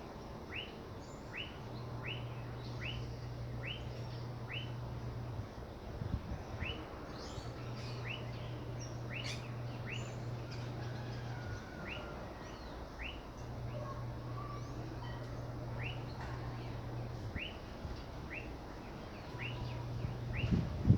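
A bird calling over and over with short rising chirps, about two a second, in runs separated by short pauses. Under it a low steady hum comes and goes every few seconds.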